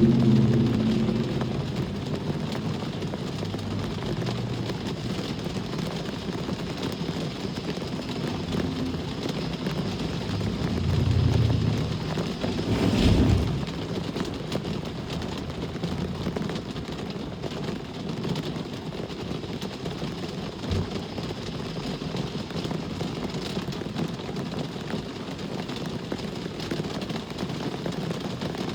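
Steady rain with traffic going by on a wet road: a constant hiss under low rumbling swells of passing vehicles. The loudest swells come at the start and around 11 to 13 seconds, peaking sharply at about 13 seconds.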